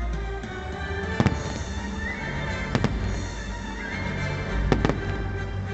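Aerial fireworks bursting in three sharp double bangs, about one, three and five seconds in, over music playing throughout.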